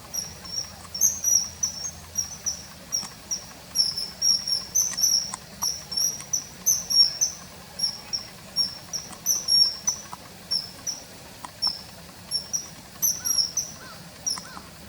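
Common kingfisher calling: a rapid series of short, shrill, high-pitched notes, repeated several times a second in runs.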